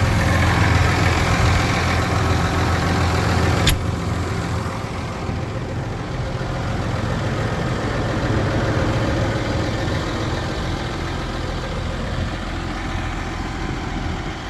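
Case Puma 200 CVX tractor engine running steadily at idle, with a single sharp click about four seconds in.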